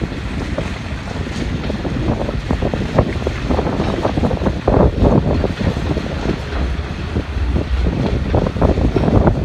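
Wind buffeting the microphone over the low rumble of an approaching HST (InterCity 125) diesel train, growing slightly louder as it nears.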